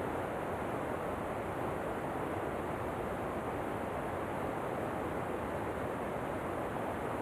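Steady, unbroken rush of falling water from a waterfall: an even hiss, strongest in the middle range, that does not change.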